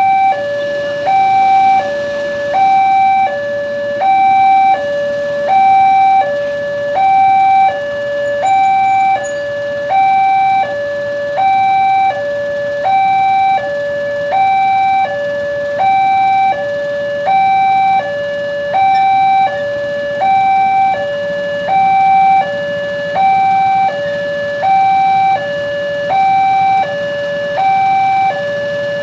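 Indonesian railway level-crossing warning alarm sounding a steady two-tone electronic signal, a higher note and a lower note alternating about once a second each, over and over: the signal that a train is approaching and the crossing barriers are closing or closed.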